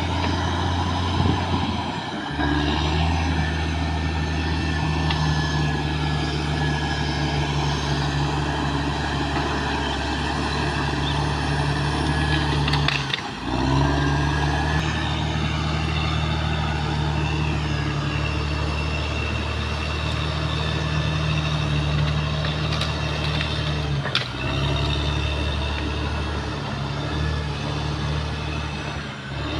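Caterpillar D6R XL bulldozer's diesel engine running steadily under working load. Its low note briefly dips and shifts three times, about ten seconds apart.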